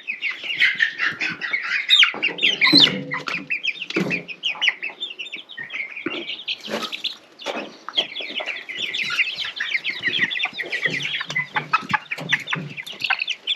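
A brood of young chicks peeping continuously, many high chirps overlapping, with a few knocks and rustles mixed in as the birds are handled.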